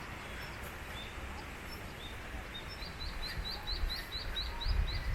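A small songbird calling: a few single high chirps, then a quick series of about ten rising notes, roughly six a second, over a steady background hiss. A low rumble comes in near the end.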